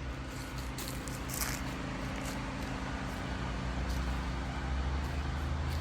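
Home generator engine running steadily with a low hum, with a few short rustling noises about a second in.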